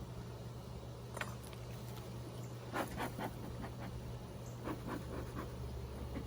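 Wooden hive frames and a hive tool knocking and scraping as frames are handled during a beehive inspection, a few short knocks at a time, over a steady low hum.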